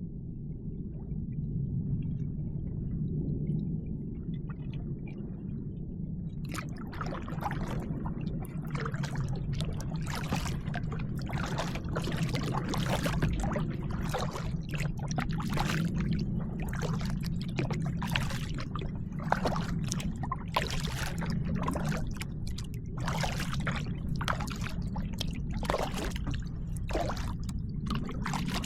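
Kayak paddle strokes, the blades splashing and water pouring and dripping off them in an irregular run, starting about six seconds in over a steady low rumble.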